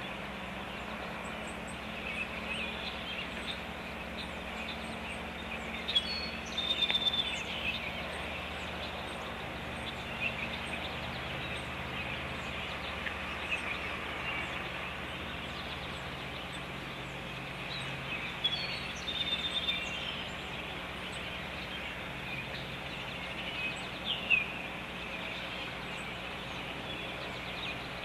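Birds calling over steady outdoor background noise and a low hum, with clusters of louder short calls about six, eighteen and twenty-four seconds in.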